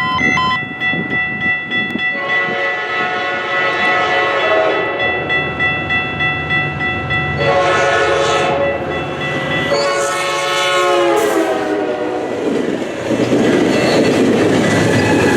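A Metrolink F59PH diesel locomotive's air horn blows several blasts as the train approaches and passes; one blast drops in pitch as it goes by. The train then rolls past with a steady rush.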